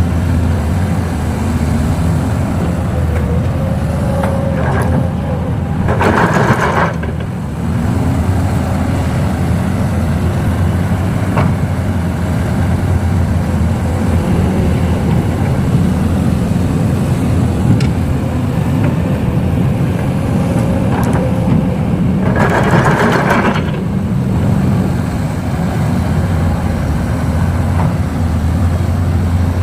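Kobelco excavator's diesel engine running steadily while loading, with two rushes of noise about sixteen seconds apart as bucketfuls of soil pour into the Hino Ranger truck's bed. Each rush is preceded by a faint whine.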